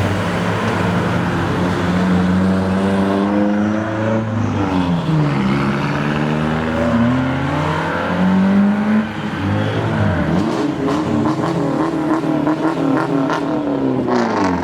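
Car engines revving and accelerating away one after another, their pitch climbing and dropping repeatedly through gear changes.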